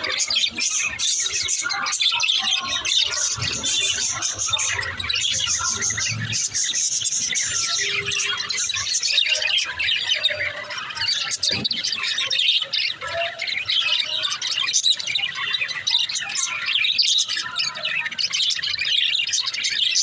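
Many small birds chirping and twittering together in a dense, unbroken chatter of high calls.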